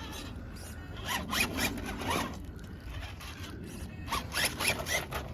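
Electric motor and SCX10 II transmission of a scale RC crawler whining in two short throttle bursts, about a second in and again near four seconds, the pitch rising and falling with each burst.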